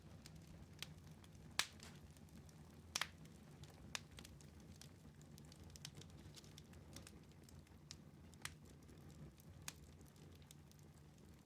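Wood fire crackling in a fireplace: irregular sharp pops and snaps over a low, steady rumble of flames, faint overall. The loudest pops come about one and a half and three seconds in.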